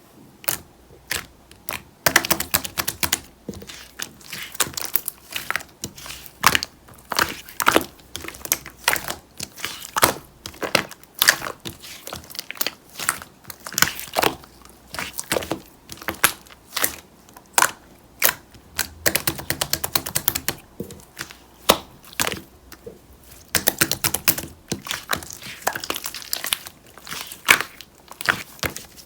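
White slime being squeezed, stretched and poked by hand, giving irregular sticky clicks and small pops, several a second, coming in dense flurries with sparser stretches between.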